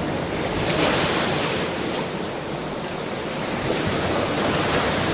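Ocean surf: waves breaking and washing in as a steady hiss of water. The surge swells about a second in, eases, then builds again near the end.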